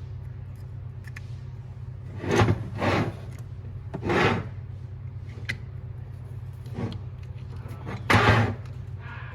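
Hand work on an angle grinder's housing during reassembly: four short scraping rubs, the last the loudest, with a few light ticks over a steady low hum.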